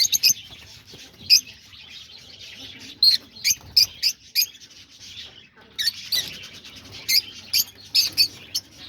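Peach-faced lovebirds chirping: many short, sharp, high chirps in quick clusters, with a lull about two seconds in and another just past five seconds.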